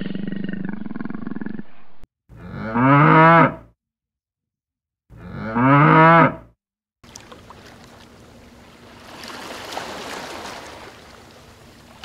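A Highland cow mooing twice, two long loud moos about three seconds apart, each rising and then falling in pitch. It is followed by a quieter outdoor hiss that swells and fades.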